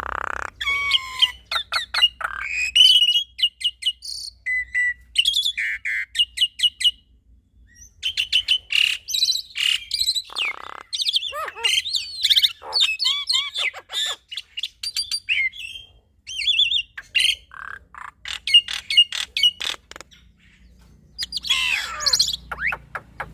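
Black-winged myna and Javan myna singing together in a long, varied chatter: whistled notes sliding up and down, rapid runs of clicks and trills, and some harsher rasping calls, with two brief pauses.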